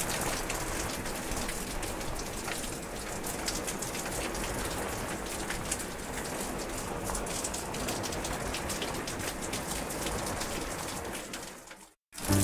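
Steady rain falling onto puddle water, an even hiss flecked with many separate drop splashes; it fades out near the end.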